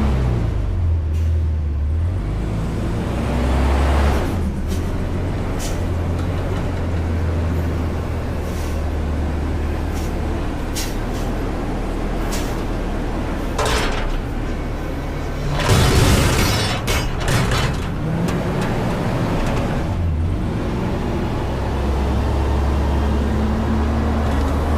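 Front-load garbage truck's diesel engine running steadily, with a loud burst of clatter and hiss about sixteen seconds in and a few sharper knocks shortly before.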